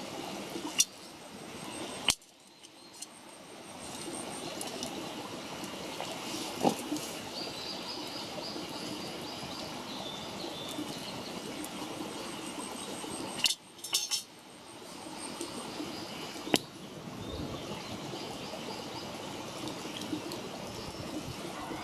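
Wood campfire burning with a steady crackle and a few sharp pops, with birds chirping faintly in the background.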